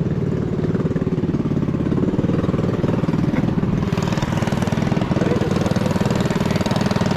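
Small single-cylinder mini bike engine idling steadily, with even, rapid firing pulses.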